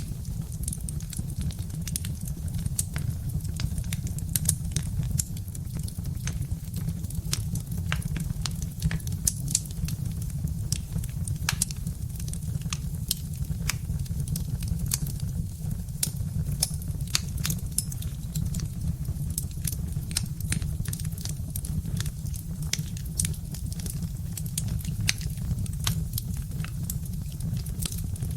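Birch-wood fire crackling: frequent irregular pops and snaps over a steady low rumble.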